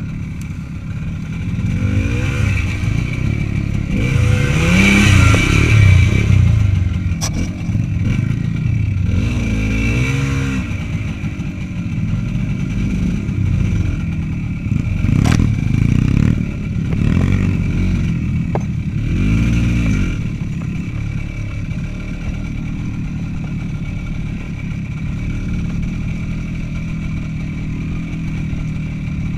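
Small motorcycle engine under way, revving up and easing off several times with gear changes, with rattling and a few sharp knocks from the bike on a rough track.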